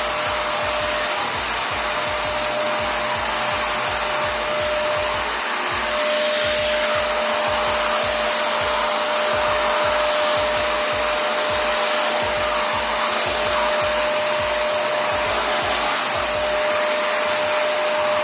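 Prestige Typhoon 06 wet-and-dry vacuum cleaner running on dry suction: a steady, loud rush of air with a constant whine.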